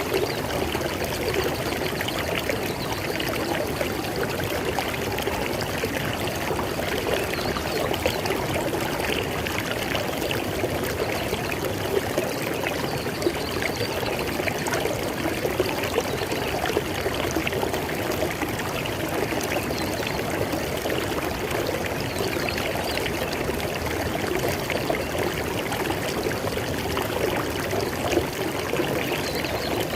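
River water flowing over rocks, a steady rushing and burbling with no pauses.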